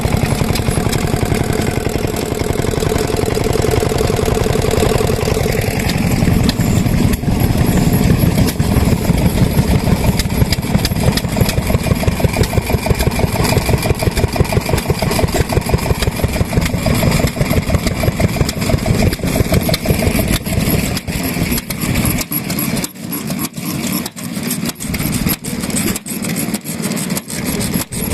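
Vintage single-cylinder stationary farm engines running, a dense rhythmic chugging of several machines. Near the end one engine's slow, separate firing beats stand out, about two a second.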